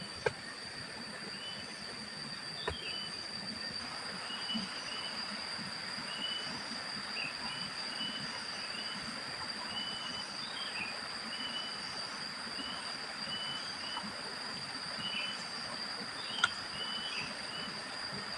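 Forest ambience: a steady high insect drone with short bird chirps repeated about once a second. There are three sharp clicks, one just after the start, one near three seconds and one near the end.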